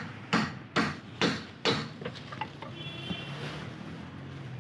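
Hammer blows, five sharp strikes about two a second, as a front brake disc and hub fitting is knocked loose for removal; then a low steady hum.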